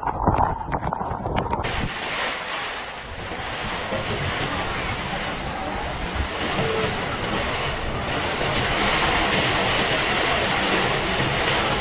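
Storm noise: a steady rush of wind and water, with wind buffeting the microphone, beginning at a cut about two seconds in.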